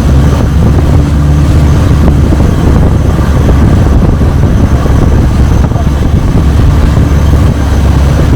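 Longtail boat's engine running steadily under way, a loud, even low drone.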